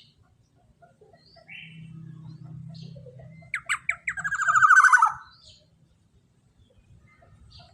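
Black-naped oriole calling: scattered short notes, then about three and a half seconds in a few sharp notes run into a loud, fast series of rasping strokes lasting over a second.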